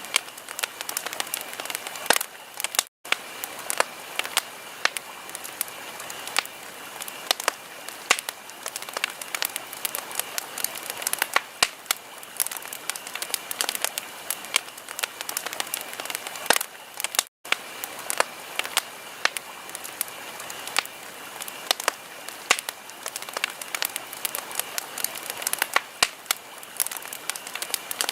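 Wood fire crackling in a fireplace: dense, irregular pops and snaps over a steady hiss. The sound cuts out for an instant twice.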